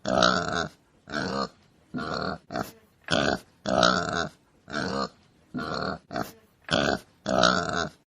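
Domestic pig grunting: a run of nine short calls, about one a second, with brief silences between them.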